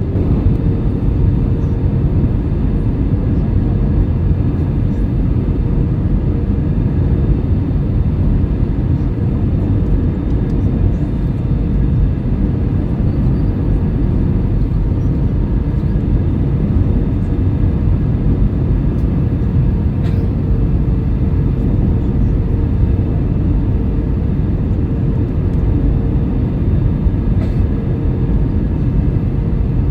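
Airbus A319 cabin noise in flight: a steady drone of engines and airflow with a faint constant whine.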